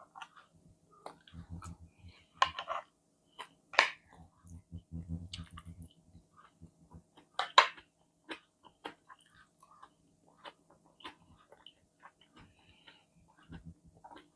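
Close-miked chewing of food in the mouth, with many small wet clicks and a few louder sharp clicks, three of them standing out at intervals.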